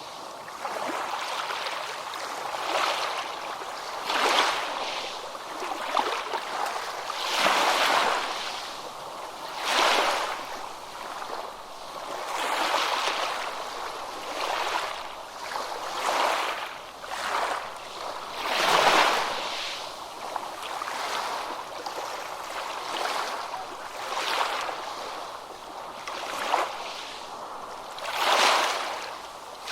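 Small ocean waves breaking and washing up a beach, a hissing surge every two to three seconds, the loudest a little past halfway.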